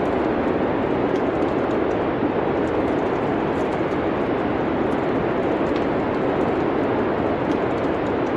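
Steady rushing wind, an even noise with no rise or fall, with faint scattered crackles of a wood fire.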